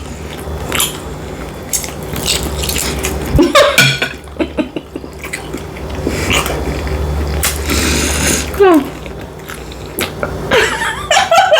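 Close-miked chewing and biting of a breakfast of sausage, eggs and bacon, with irregular wet mouth clicks and smacks and a couple of short hums.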